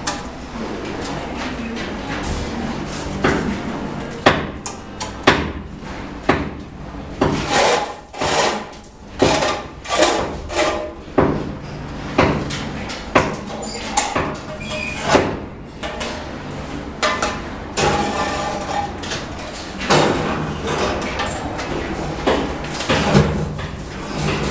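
Bricklaying work with a steel trowel: a run of irregular sharp knocks and scrapes against cement bricks and mortar, thickest through the middle, over a steady low hum.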